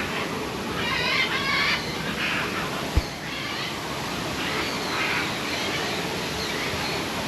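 Steady rush of a large waterfall, with birds calling over it a few times. A single brief low bump about three seconds in.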